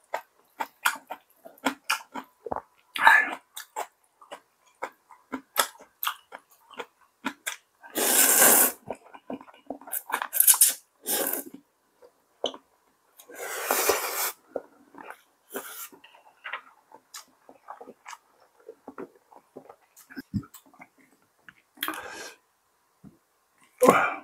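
A person eating: chewing with many short wet mouth clicks and crunches. Two longer noisy bursts come about eight and fourteen seconds in.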